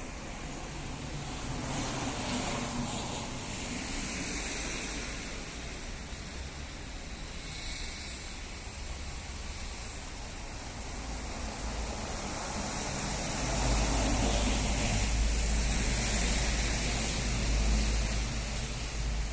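Evening city rain ambience: an even hiss of rain falling, with slow swells in level. A low rumble grows louder about two-thirds of the way through.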